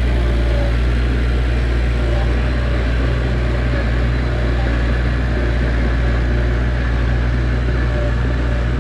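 Heavy diesel engine of earthmoving equipment running steadily with a deep, even rumble.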